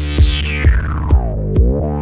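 Electronic music: a synthesizer chord whose bright filter sweep falls steadily and starts rising again near the end, over a steady bass and drum-machine kicks about twice a second.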